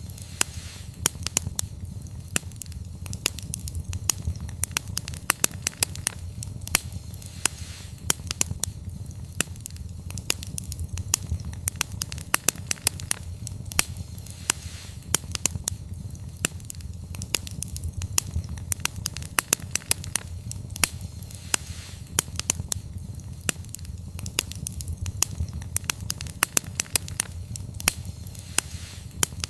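Wood campfire crackling: irregular sharp pops and snaps several times a second over a steady low rumble.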